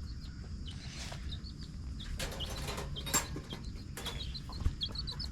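Small birds chirping: many short, high chirps repeating, over a low steady outdoor rumble, with a few brief rustling noises about two to three seconds in.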